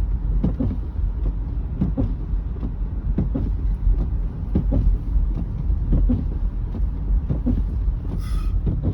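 Car driving slowly on a snow-covered road, heard from inside the cabin: a steady low rumble of engine and tyres, with frequent soft knocks, and a brief higher-pitched sound near the end.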